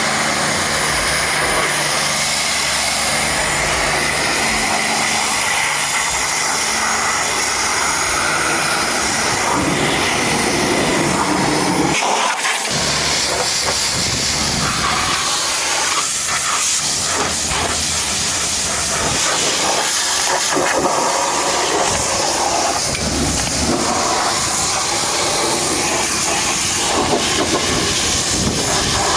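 High-pressure washer jet spraying water onto a muddy truck, a steady loud hiss.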